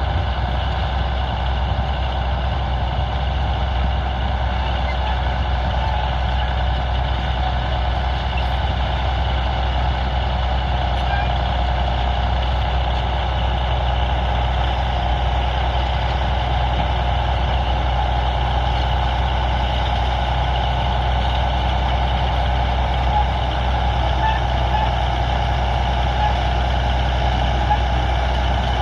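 Heavy earthmoving machinery with a diesel engine running steadily at work: a continuous low drone with a steady higher whine on top.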